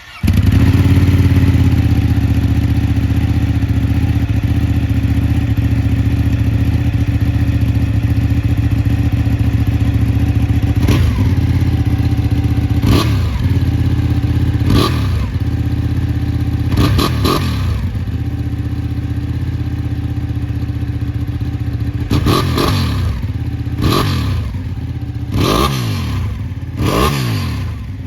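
Ducati Panigale 899's V-twin engine catching and idling steadily, then, about eleven seconds in, revved in a series of short throttle blips, each rising and falling in pitch, coming closer together near the end.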